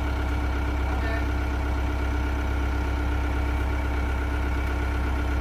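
Sumitomo SH120 A1 excavator's diesel engine running at a steady speed, a constant low drone with a steady hum over it.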